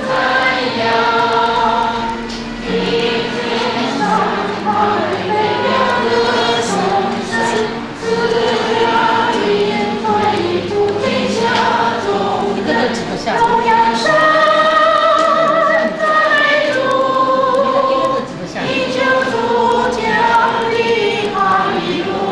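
Choir singing a Christian hymn: several voices together holding long notes with vibrato, with short breaks between phrases.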